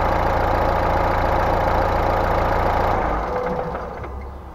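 Mercedes-Benz car engine idling steadily, then switched off about three seconds in and running down to a stop.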